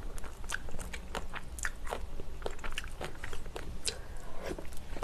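A person chewing a mouthful of tuna and flying-fish-roe bibimbap close to the microphone, with irregular wet mouth clicks and crisp crunches.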